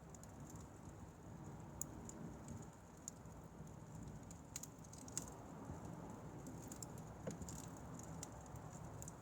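Firewood fire burning with a faint low rumble of flame, and irregular small crackles and pops.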